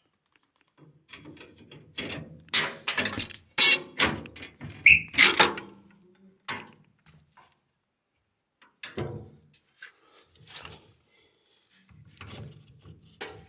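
Metal clanks and knocks of hitch pins and links being worked as a brush hog is unhooked from a tractor, a quick run of them in the first half with a short squeak, then a few single knocks later.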